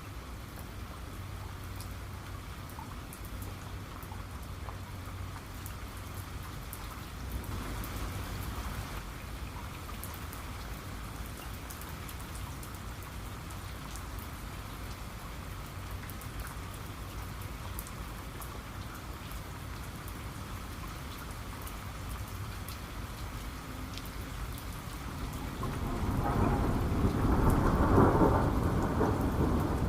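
Steady rain with scattered drops hitting close by. A roll of thunder swells up about 26 seconds in and is loudest near the end.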